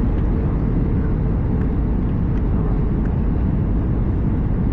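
Steady low rumble of an Airbus A320's cabin: engine and airframe noise heard from a passenger seat, even throughout.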